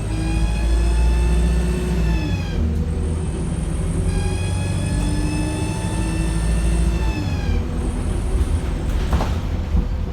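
Wright StreetLite single-deck bus engine under hard load with a steady low rumble, over which a high whine of several stacked tones comes in twice, for about two and a half and three and a half seconds, each dropping in pitch as it fades. Near the end come short bursts of hiss.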